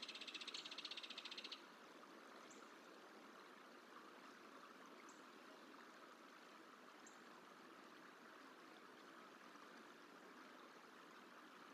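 A small bird's rapid, high trill that stops about a second and a half in. Then a few faint, brief high chips over a quiet, steady outdoor hiss.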